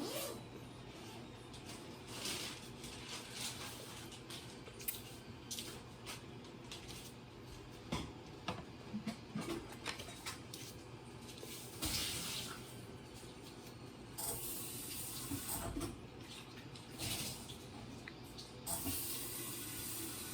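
Water running or being poured for a few seconds, about two-thirds of the way in, among scattered small clicks and knocks of cups and dishes being handled.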